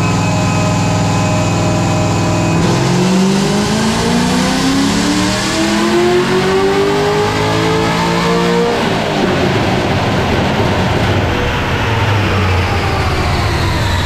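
Corvette V8 making a wide-open-throttle pull on a chassis dyno: it runs steadily, then about three seconds in the revs climb steadily for some six seconds and fall away as the throttle is lifted. The tune runs too lean at the start of the pull, leaner than 14 to 1 at wide-open throttle; the tuner says this can be heard and may be pre-ignition or knock.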